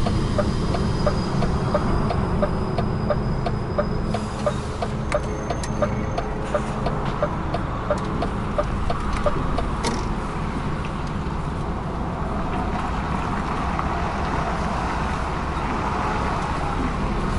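Truck engine running in the cab while driving slowly, with the turn indicator ticking about twice a second; the ticking stops about halfway through, and the road and tyre noise grows a little towards the end.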